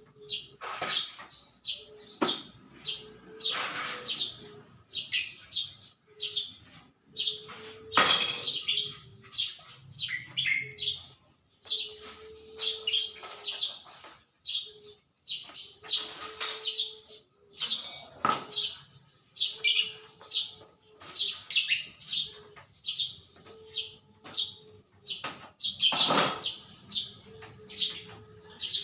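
Small birds chirping and twittering continually in quick, high calls, with a low steady note coming and going and a few short knocks.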